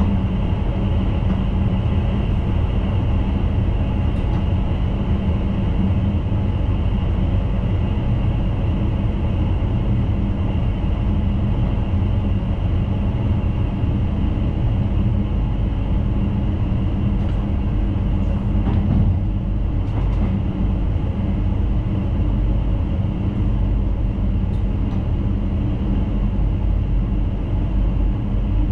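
Electric intercity train running along the line, heard from inside the driver's cab: a steady rolling noise with a steady hum, and a few faint clicks about two-thirds of the way through.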